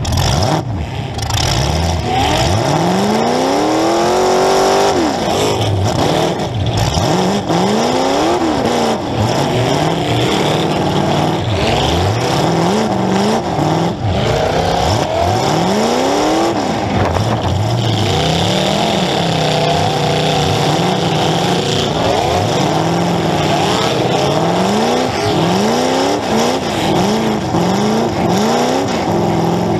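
Demolition derby car's engine heard from on board, revved hard again and again, its pitch climbing in repeated sweeps and falling back every second or two, with occasional knocks.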